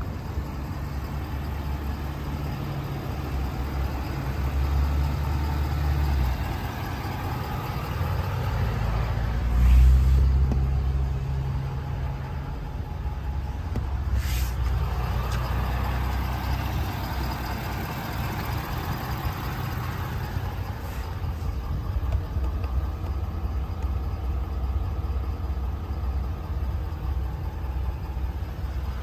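Ford F350 service truck's engine running at idle, swelling louder a couple of times and most strongly about ten seconds in, with a short hiss about fourteen seconds in.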